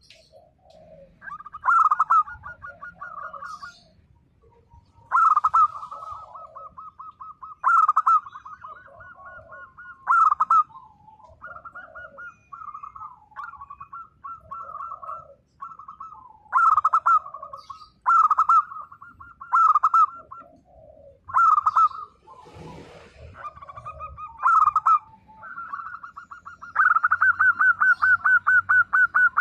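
Zebra dove (perkutut) cooing: loud phrases of rapid, pulsing coos repeated every two to three seconds, with a longer rolling trill of coos near the end.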